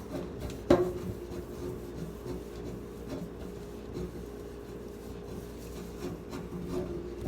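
Refrigerator parts being handled and fitted back in: rubbing and scraping with small knocks, and one sharp knock about a second in.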